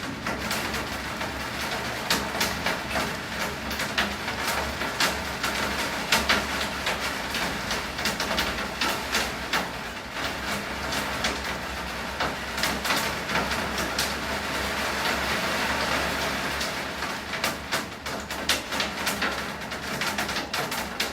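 Heavy rain falling steadily, with many sharp, irregular drop hits on a hard surface close by.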